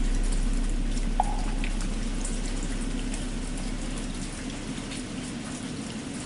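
Steady rain with the deep hum of a large temple bell slowly dying away, and a single wooden fish (muyu) knock about a second in.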